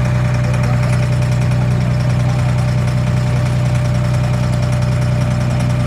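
Boat engine running at a steady speed, a constant low hum with a chugging edge.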